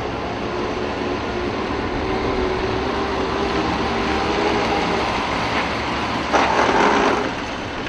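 Truck engine running steadily, with a wavering engine tone. About six seconds in there is a louder, noisy burst lasting under a second.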